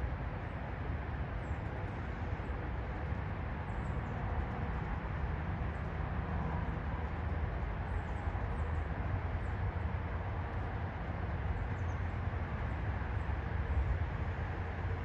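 Steady low outdoor rumble, with faint high chirps a few times.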